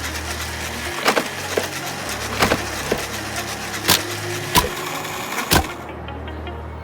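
About seven sharp knocks or cracks at irregular intervals over a steady low background hum.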